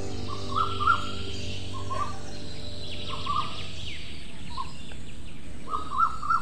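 Small birds chirping: short, quick chirps coming roughly once a second, over a steady low hum.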